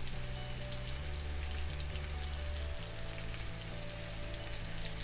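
Chopped vegetables frying in a pan on a gas hob, a steady fine crackling sizzle with scattered pops. Background music with held low bass notes plays under it.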